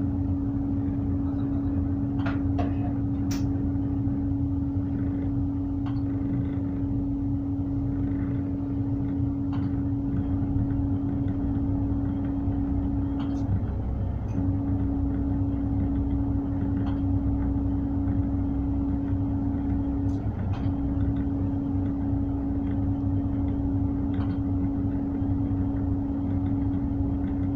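Tugboat's diesel engine running steadily while holding position, a low drone with a steady whine that drops out briefly twice, near the middle and again about two-thirds through. A few faint clicks and knocks sound over it.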